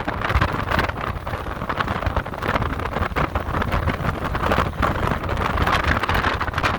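Strong gusty wind buffeting a smartphone's microphone: a constant low rumble with irregular surges of noise.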